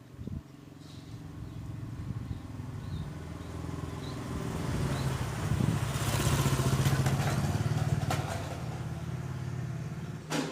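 A motor vehicle engine passing by, growing louder to a peak about six to eight seconds in, then easing off. A few faint, short, high chirps sound over it in the first half.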